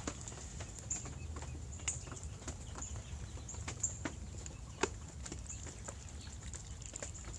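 Backyard chickens and ducks foraging: scattered soft clucks and small clicks over a steady low rumble.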